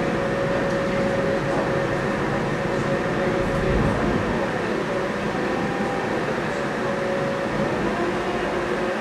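Friendship Boat's engine running with a steady, even rumble, with a held hum that fades out about halfway through.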